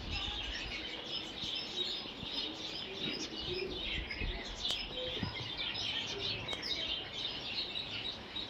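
Birds chirping and twittering continuously, many short overlapping calls at once, like a busy chorus.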